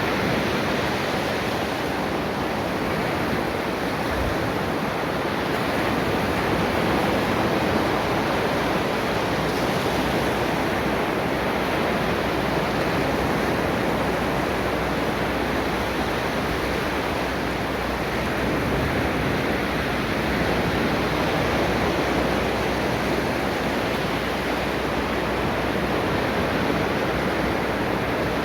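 Ocean waves breaking on a beach: a steady wash of surf that swells and eases gently.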